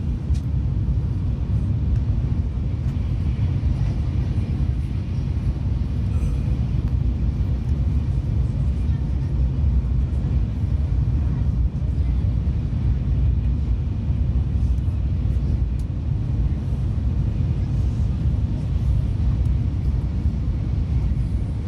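Steady low rumble of a Tokaido Shinkansen train running at speed, heard from inside the passenger car.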